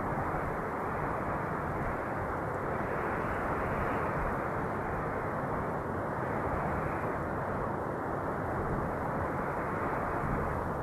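Steady wind, a dense low rushing noise that swells and eases gently every few seconds.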